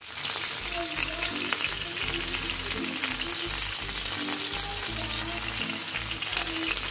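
Mutton-and-potato kebab patties sizzling steadily as they shallow-fry in hot oil in a pan, with soft background music underneath.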